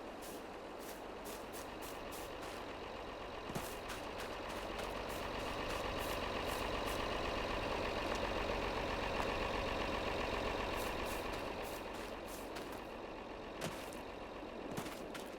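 Tractor engine running steadily, growing louder toward the middle and easing off again near the end, with repeated light clicks over it.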